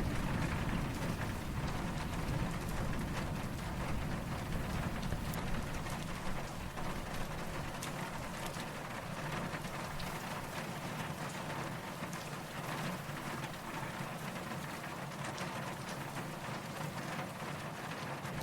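Steady rain falling, an even hiss with scattered drop patter. A low, distant rumble of thunder underneath fades away about halfway through.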